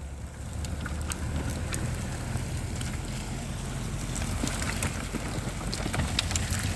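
MTZ (Belarus) tractor's diesel engine running steadily, a low rumble, with scattered sharp clicks and crackles over it.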